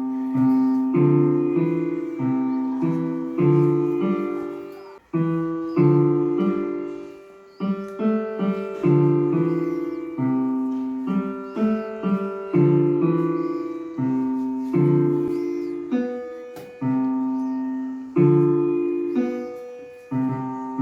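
Piano-sounding notes played one after another in a simple melody with lower notes in between, each note struck and left to ring out and fade.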